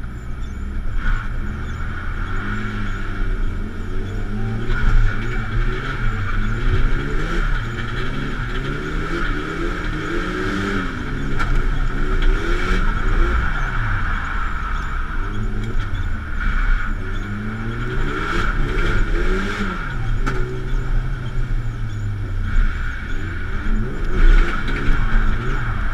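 Drift car's engine heard from inside the cabin, revving up and falling back again and again as the car is driven through a drifting run, over a steady hiss.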